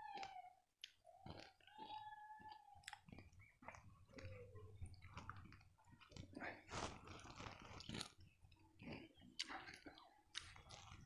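Close-up chewing and crunching of lai, a puffed-rice sweet, with many small crackling clicks as the grains are bitten and picked one by one.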